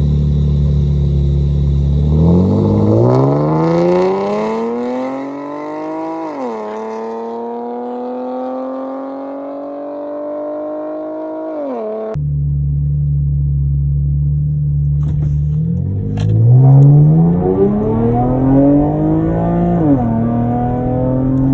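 Car engine accelerating hard from idle through the gears. Its pitch climbs, drops at an upshift about six seconds in, climbs more slowly and drops again near twelve seconds, then cuts off suddenly. After a spell of idling, a second hard pull begins about fifteen seconds in, with another upshift near twenty seconds.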